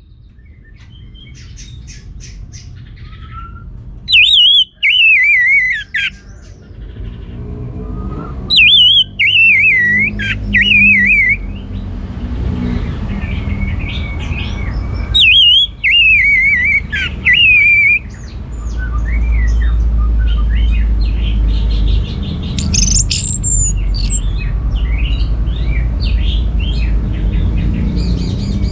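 Orange-headed thrush singing loud warbled phrases that slide downward in pitch, three main phrases a few seconds apart, with softer chirps between them. A low rumble runs under the second half.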